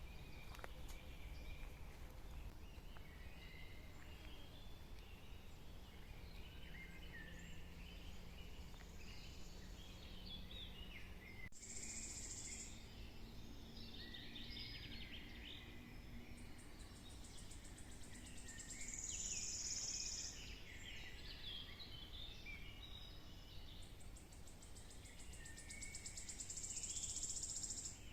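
Forest birds singing and calling, many short chirps overlapping, with three longer high, fast trills that are the loudest parts. A faint low rumble runs underneath.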